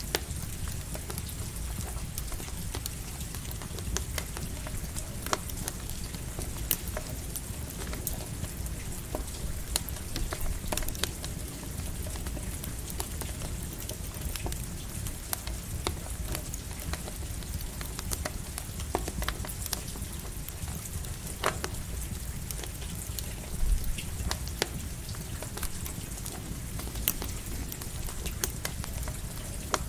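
Rain falling steadily alongside a crackling campfire: an even hiss with many scattered sharp pops and crackles over a low steady rumble.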